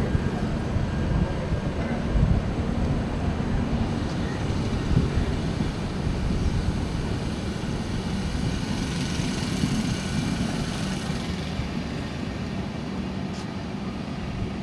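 Passenger train of Duronto Express coaches rolling slowly past on the track: a steady low rumble of wheels on rails, with a brief higher hiss about two-thirds of the way through.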